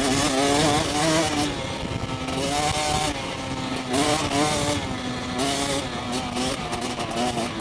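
Motorcycle engines revving up and down over and over, the pitch rising and falling every second or so, as on off-road bikes riding in a group.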